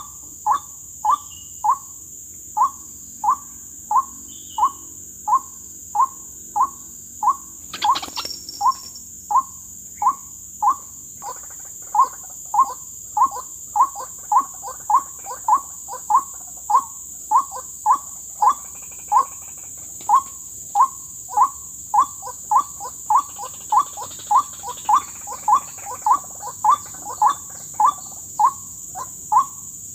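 White-breasted waterhen (dahuk) calling a monotonous, evenly repeated 'kook', about one and a half to two calls a second, the call used to lure the bird to a trap. A steady high-pitched hiss lies underneath, and there is a brief rustle about eight seconds in.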